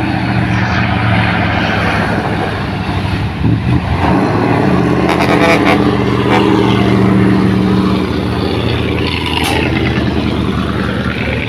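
Diesel engine of a loaded truck running hard as it crawls up a steep climb, its pitch wavering about three to four seconds in and then holding steady and a little louder.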